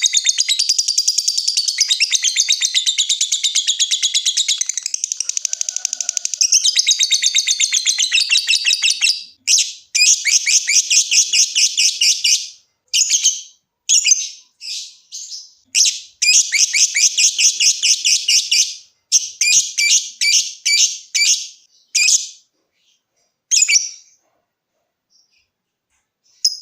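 Lovebird singing: a long, rapid, unbroken chattering trill for about nine seconds (the 'ngekek' call prized by lovebird keepers), then breaking into shorter bursts of one to two seconds with pauses between them, falling silent for a few seconds near the end.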